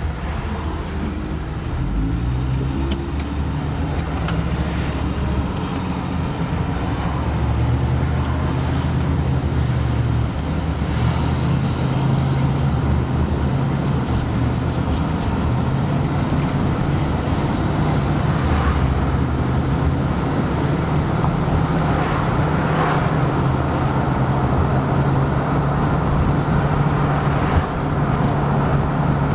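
Steady engine and tyre road noise of a vehicle driving at an even pace, a low hum over a continuous rush, with no siren.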